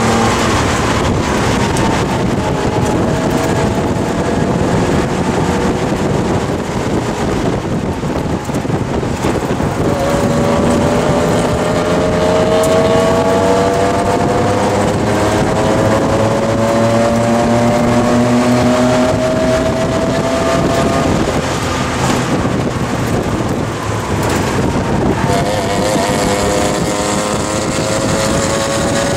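1971 Porsche 911T's air-cooled flat-six engine at racing speed, heard from inside the cabin: the engine note climbs steadily in pitch through a long pull, falls back after the middle, then climbs again near the end, over steady wind and road noise.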